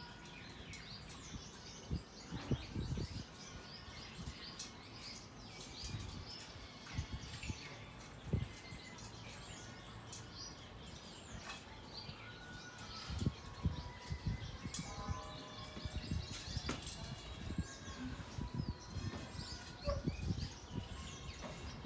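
Several small birds chirping and calling in quick short notes, with scattered dull low thumps throughout.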